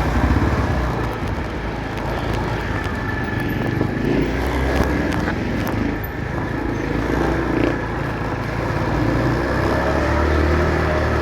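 Motorcycle engine running while riding through traffic, its note rising and falling a little as the throttle changes, over steady road and traffic noise.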